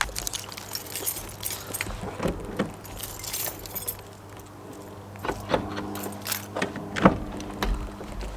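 A scatter of light clicks and rattles over a low steady hum, with a steadier drone joining about two-thirds of the way in.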